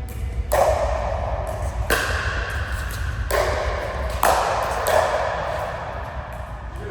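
Five sharp strikes during a rally, each with a short ringing tail. The first three come about a second and a half apart, then two more in quicker succession, over a steady low hum.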